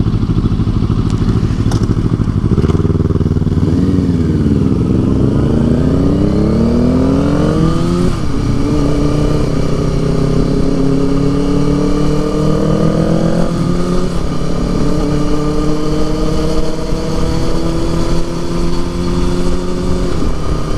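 Motorcycle engine accelerating: the engine note rises through a gear, drops at an upshift about 8 seconds in, rises again to a second upshift a little past halfway, then runs nearly steady at cruising speed.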